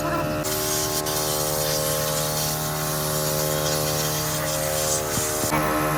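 A steady hiss that starts about half a second in and cuts off suddenly about five and a half seconds in, over a constant hum.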